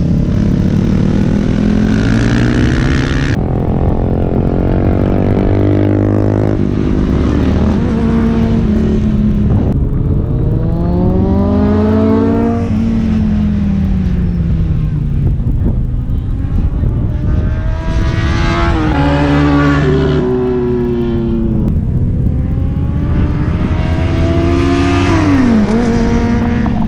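Superbike engines on a race track, revving up through the gears and falling back as the bikes accelerate and brake, with the pitch rising and dropping repeatedly as bikes pass.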